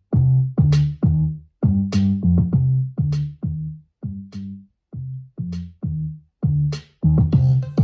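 Electronic music with a drum-machine beat and short, punchy bass notes separated by brief gaps, played through a DIY speaker with a Dayton Audio 3-inch full-range driver as a bass test. A hissing hi-hat pattern joins in near the end.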